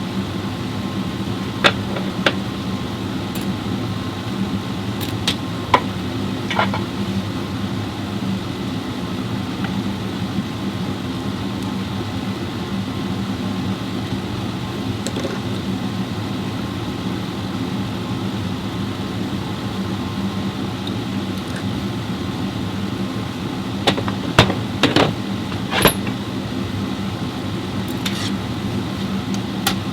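A steady low mechanical hum of a motor or engine running, with a few sharp clicks and knocks on top, most of them in a cluster near the end.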